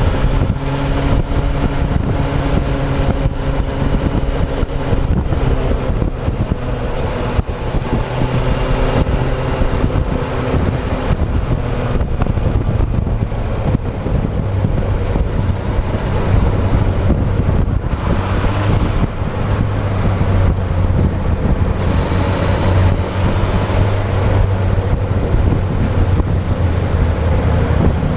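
Motorcycle engine running under way, heard close up from the fuel tank, with wind rushing over the microphone. The engine note drops to a lower, steadier pitch about halfway through.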